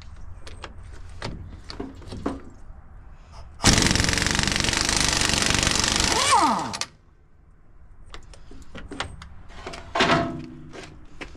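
Impact wrench hammering for about three seconds, a few seconds in, breaking a bolt loose, its motor pitch falling as it stops. Scattered clicks and knocks of tools being handled come before and after it.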